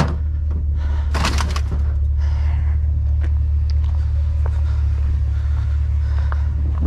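A steady low rumble throughout, with a burst of rustling and clatter about a second in and a few light clicks and knocks later, as salvaged items are handled.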